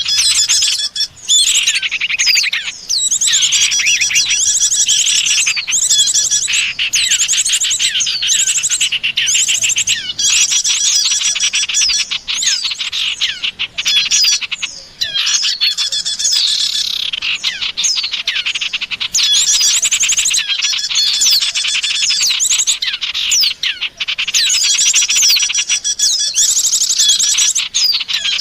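Bird-lure recording of small songbirds chirping and trilling rapidly and without pause, several calls overlapping, with a few brief breaks.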